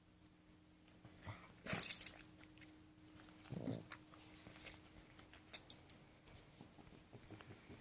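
Pug puppy sneezing: one sharp sneeze just under two seconds in, then a lower snort a couple of seconds later, followed by a few small clicks.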